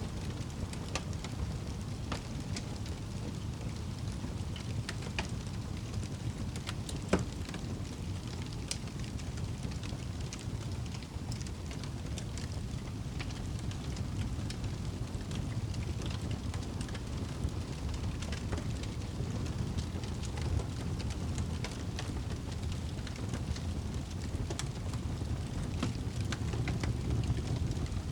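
Wood fire burning in a fireplace: a steady low rumble of flames with scattered crackles, and one sharper pop about seven seconds in.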